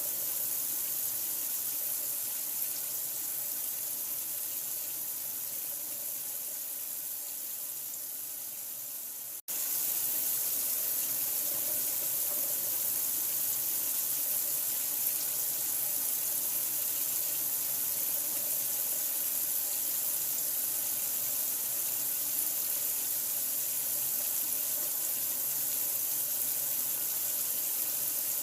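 Steady running water: an even, unbroken hiss. It cuts out for an instant about nine and a half seconds in, then carries on slightly louder.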